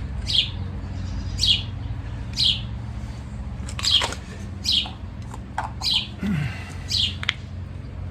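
A bird chirping over and over, one short falling chirp about once a second, over a steady low hum, with a few short clicks about halfway through.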